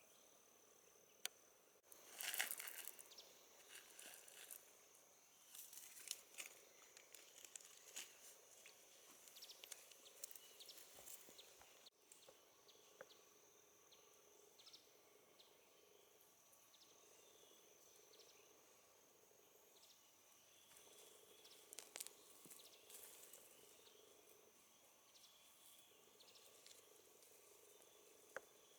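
Faint steady insect buzzing, with scattered light crackling and rustling noises, the loudest about two seconds in.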